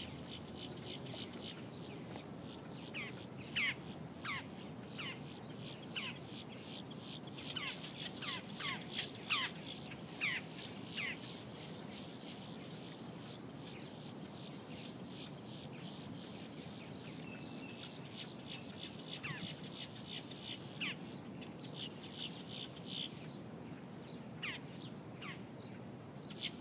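Birds calling, with short falling chirps repeated on and off. Several bouts of fast, even high-pitched ticking, about five a second, come and go among them.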